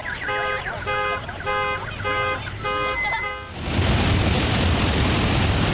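A car alarm horn honking in an even repeating pattern, about two blasts a second. About three and a half seconds in it gives way to a loud, steady rushing noise.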